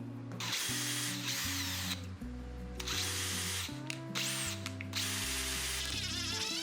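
A power tool run in several short bursts of about a second each, with a high whine over the noise, over background music with a steadily stepping bass line.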